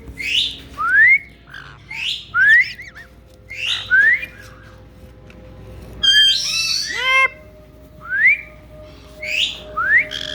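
Caique parrots calling: one bird gives a short upward-gliding whistle over and over, about five times, with harsher squawks from other caiques in between, the busiest stretch a little past the middle.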